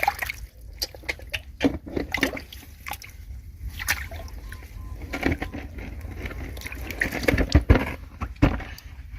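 Shallow ditch water sloshing and splashing in irregular bursts as someone wades and gropes through it by hand, with a louder cluster of splashes near the end.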